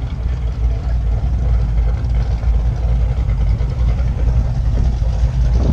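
Low, steady rumble of drag-racing car engines running down the strip.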